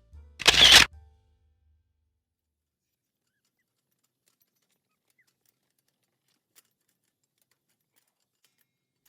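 A single camera-shutter sound, about half a second long, then silence.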